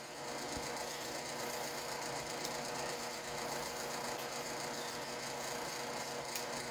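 Electric shop fan running with a steady hum and whine, a little noisy. A couple of faint clicks from bench work sound over it.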